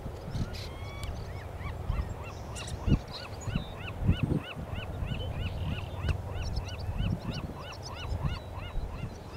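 A bird calling in a rapid, even series of short rising-and-falling notes, about three a second, starting about two seconds in and running to near the end. Irregular low rumbling thumps sit underneath.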